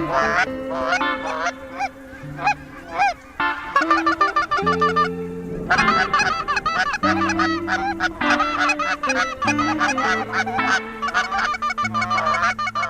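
A flock of geese honking, many short calls overlapping, thickening into a dense chorus about six seconds in, over background music with held low chords.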